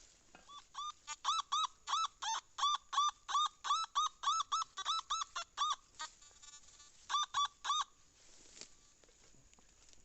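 Metal detector target tone: a quick series of short beeps, about three a second, each rising and falling in pitch as the coil is swept back and forth over a buried target, broken by a short buzzing tone a little past the middle.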